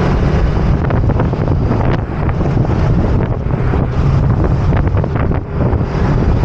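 Heavy wind buffeting the microphone of a camera on a moving motor scooter, a loud, continuous rumble that covers the engine and traffic.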